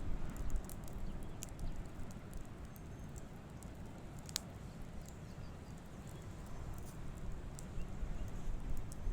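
Campfire crackling: scattered sharp pops and ticks, one louder pop a little before halfway, over a low steady rumble.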